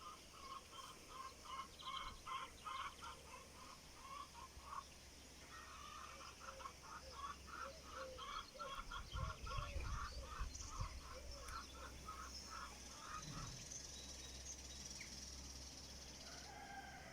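Chickens clucking in long runs of short repeated calls, about three a second, with a brief break about five seconds in and the calls fading after about thirteen seconds. A low rumble comes in around nine to ten seconds.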